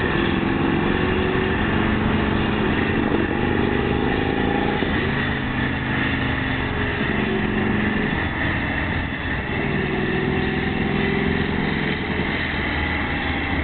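Turbocharged Harley-Davidson WL 45 flathead V-twin motorcycle engine running, its pitch shifting up and down a few times as the engine speed changes.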